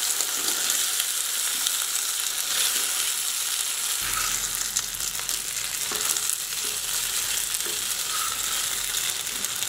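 Boiled colocasia (taro) pieces sizzling in hot oil in a non-stick pan, a steady crackling hiss. From about four seconds in a wooden spatula stirs them, with a few light scrapes and knocks against the pan.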